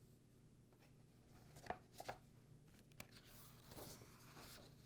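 Faint handling of a picture book's paper pages: a few light taps, then a soft rustle as a page is turned.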